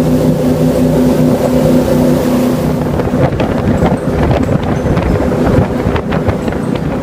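Jet boat engine running with a steady hum that fades out a little under three seconds in, leaving loud wind buffeting the microphone and rushing water.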